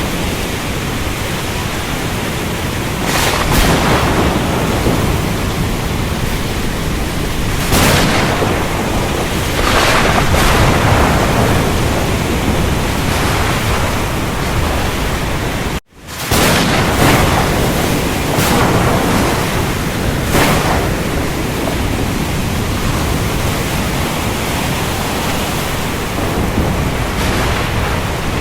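Steady hiss of heavy rain with rumbles of thunder swelling up several times. Near the middle the sound cuts out for a split second and comes straight back, like a splice in a looped recording.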